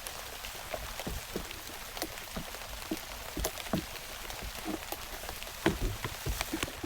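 Steady rain falling, with many separate drops tapping irregularly, growing denser and louder near the end.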